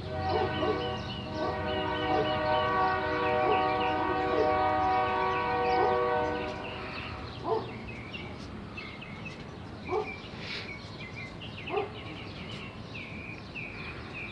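A train horn sounds as one long, steady chord for about seven seconds, then stops. A bird chirps rapidly the whole time, and three short, sharp sounds come in the second half.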